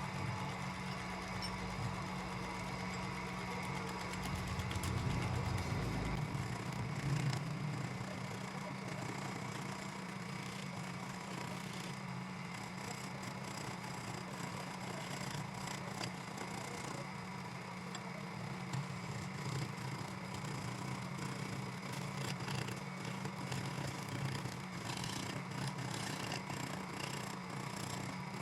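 Woodworking power tool's electric motor running steadily, with a change in its low hum about six seconds in.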